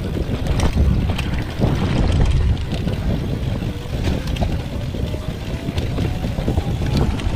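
Mountain bike ridden over rough trail: wind rumbling on the microphone, with frequent clicks and rattles from the bike and mount, and a faint tone slowly rising in pitch throughout.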